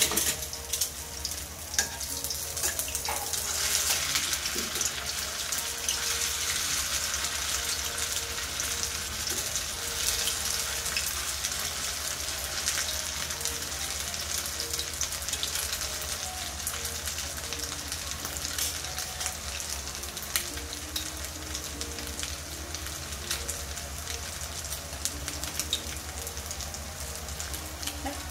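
Chicken and tofu balls deep-frying in canola oil in a stainless steel skillet: a steady sizzle thick with small crackling pops. It grows louder about four seconds in and eases a little after the middle.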